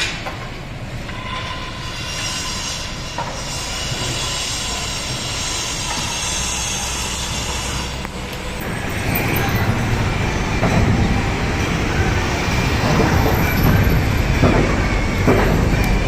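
Building-site machinery noise: a high metallic squealing and grinding at first, then, from about halfway, a heavier, louder rumble with clanks and knocks.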